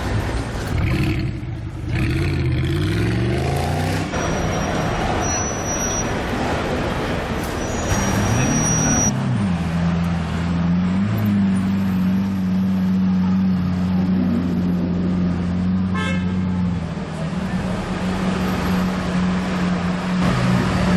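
Supercar engines accelerating, their pitch rising in runs, then an engine note held steady for about ten seconds.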